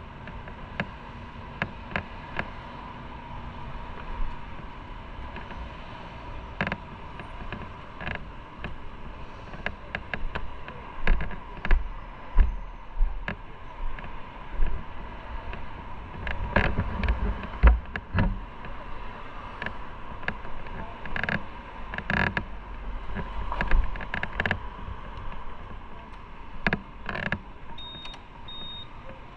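Irregular clicks, knocks and creaks over a steady noisy bed, with a run of heavier low thuds about halfway through: rattling picked up by a camera riding on a moving motorcycle.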